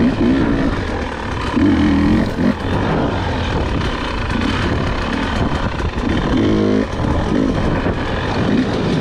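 Husqvarna dirt bike engine under way on rough trail, the throttle opened and closed in repeated bursts so the pitch rises and falls, with frequent knocks and rattles from the bike over the ground.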